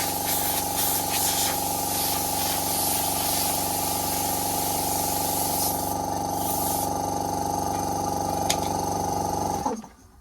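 Electric pressure washer running steadily, a motor drone under the hiss of the water jet, until it cuts off abruptly just before the end.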